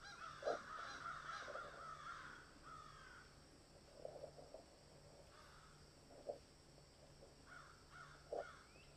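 Faint ambient outdoor soundscape of birds calling in short, repeated harsh notes, in clusters near the start and again near the end, over a low steady hum.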